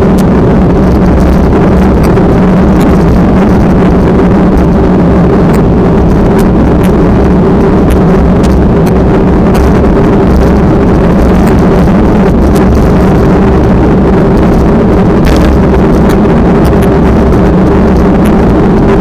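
A loud, steady engine drone that holds one pitch throughout, with wind noise on the microphone.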